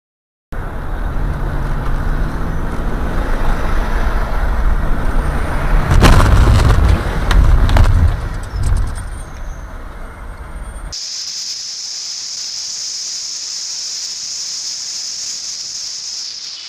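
Loud road and engine rumble of a moving car, hit by a crash about six seconds in: a heavy impact followed by several more knocks over the next two seconds. The sound then cuts abruptly to a steady high-pitched whine over faint hiss.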